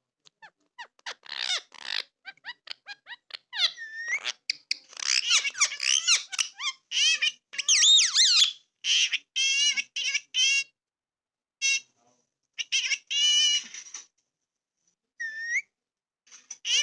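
Parrot calling: a run of quick clicks, then a string of high squeaks, screeches and warbling, pitch-bending calls with short pauses between.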